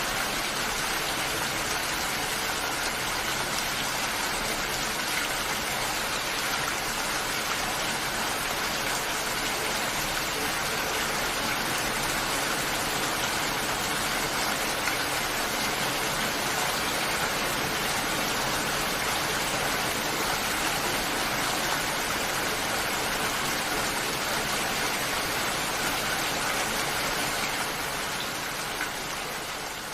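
Steady, heavy rain: a dense, even hiss of falling drops that dips in level near the end.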